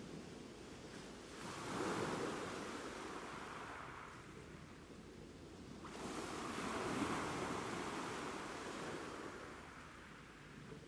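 Ocean waves breaking on a shore: two waves crash, about 1.5 and 6 seconds in, each swelling quickly and then washing out slowly over several seconds.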